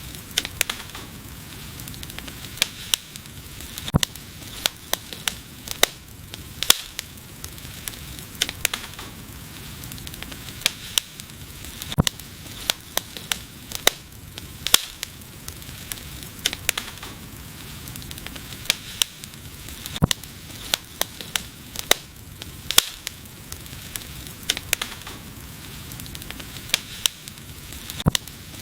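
Wood fire burning with a steady soft hiss and frequent sharp, irregular crackles and pops.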